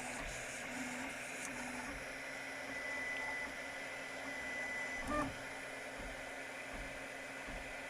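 3D printer running a print: its motors whine in short tones that step in pitch as the head moves, over a steady fan hum. A thin high whine holds for a few seconds mid-way, and there is a brief louder burst of motor noise about five seconds in.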